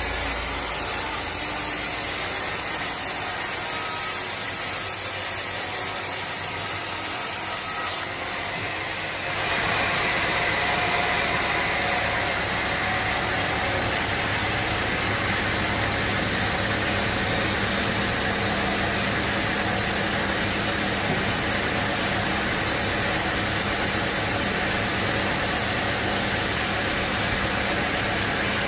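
Sawmill machinery running with a steady mechanical noise; the sound changes abruptly about eight seconds in.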